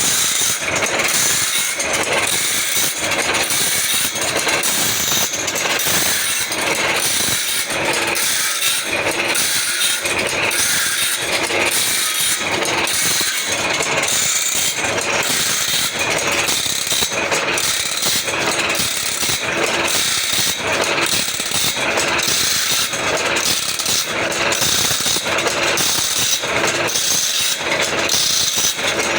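Automatic band saw blade sharpening machine running through its cycle, with a regular stroke repeating about once a second over a steady grinding hiss.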